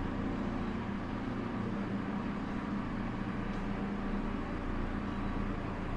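A heavy machine's engine running steadily at an even speed, the sound of a forklift or telehandler working nearby.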